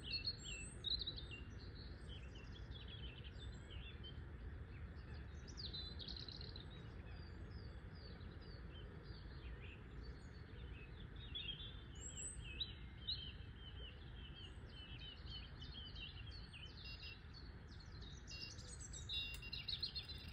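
Several songbirds chirping and singing in a steady chorus of short trills and calls, over a low, steady background rumble.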